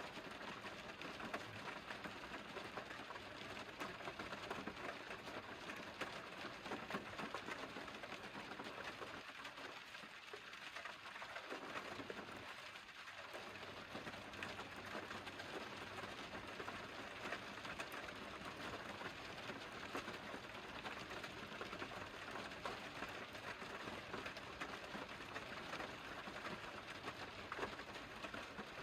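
Steady rain, a dense even patter of drops.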